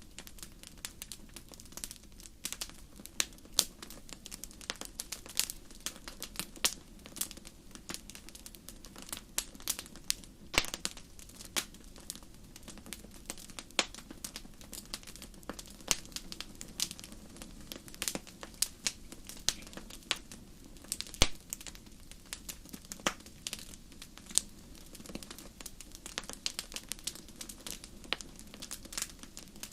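Fire burning in a fireplace, crackling with irregular sharp pops over a steady low hush of the flames. A few pops are louder, about ten and a half and twenty-one seconds in.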